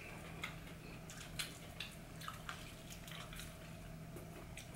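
Quiet mouth sounds of people chewing pizza: scattered short wet clicks and smacks at irregular moments, over a steady low hum.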